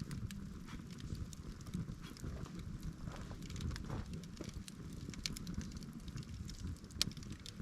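Wood campfire burning, with scattered crackles and pops over a low rumble; one sharper pop near the end.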